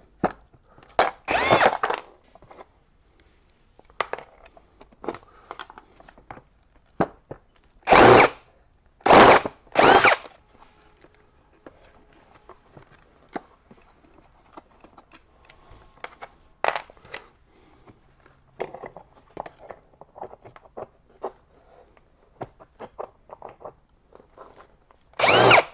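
Cordless drill driving out small Phillips screws from a wooden chair leg in short bursts of whine, the loudest three a second apart in the middle and another at the end. Small clicks and handling noises fall between the bursts. One screw is stubborn, and the owner suspects it is stripped.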